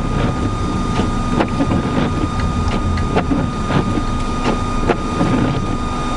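A car running steadily in deep snow, with wind noise and repeated light clicks about once or twice a second.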